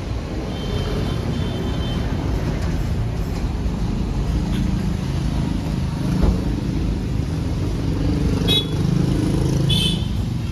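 Tractor diesel engine running steadily with a low rumble. Two short high-pitched sounds come near the end.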